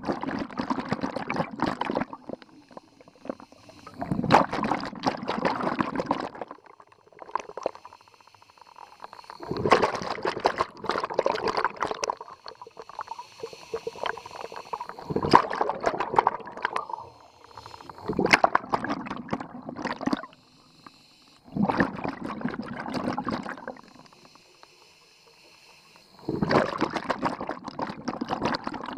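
Scuba diver's exhaled air bubbling out of the regulator, about seven breaths, each a two-second burst of crackling bubbles with quieter pauses between for the inhale.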